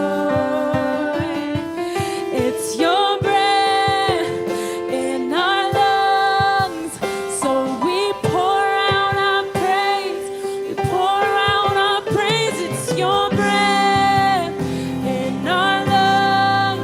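Gospel worship singing led by a female voice, with sustained notes held over keyboard accompaniment.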